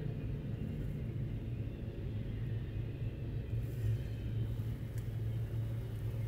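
Double-stack intermodal freight train rolling past, a steady low rumble of steel wheels on rail.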